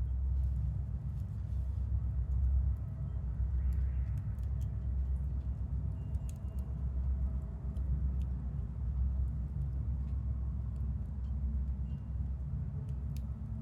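Low, steady rumble of a train drawing near, under scattered sharp crackles from a wood fire burning in a chiminea; a faint high chime rings briefly a couple of times.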